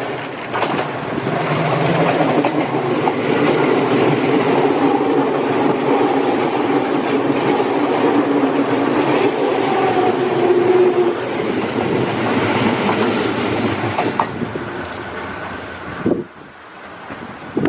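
A train running on the rails, loud and steady, with a faint whine held through the middle; the sound drops away suddenly about sixteen seconds in.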